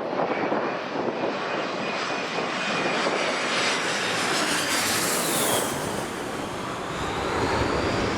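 Airliner engines passing close by with a rising hiss that peaks about five seconds in, while a thin whine drifts down and then back up in pitch. Heavy gusting wind buffets the microphone throughout.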